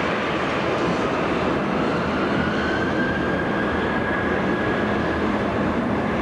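Jet airliner engines running in a steady rush, with a whine that rises in pitch about two seconds in and then holds.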